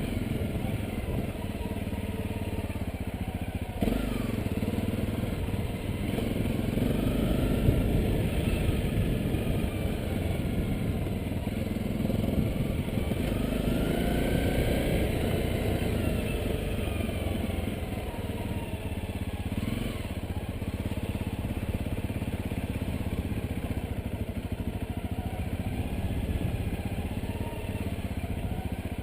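Honda CRF250L's single-cylinder four-stroke engine running while the bike is ridden, its pitch rising and falling with the throttle, with a short knock about four seconds in.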